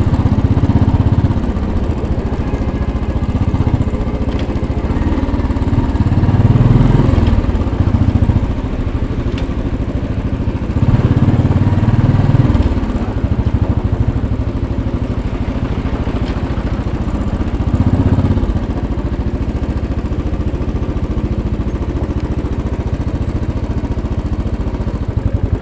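2010 Royal Enfield Bullet 500's single-cylinder engine running in traffic, swelling louder with the throttle several times, then settling to a steady idle for the last several seconds. The idle is a little high, which the owner suspects is a sticking high idle.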